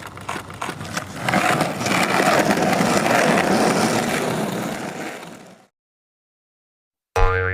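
A passing-vehicle sound effect: a clattering, rattling rumble that swells for about three seconds, then fades and stops. Near the end a cartoon boing begins.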